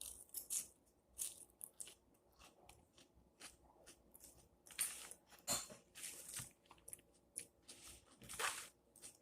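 Mouth sounds of a person eating a chicken salad with cucumber: irregular crisp crunches and chewing, several a second at times, with the loudest crunches a little past the middle and near the end.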